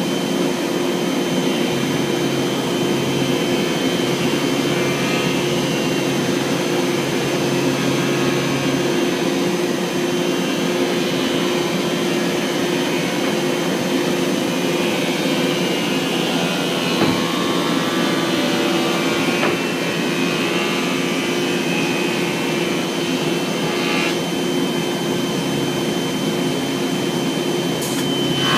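A vacuum running steadily, a rushing noise with a constant hum and a faint high whine.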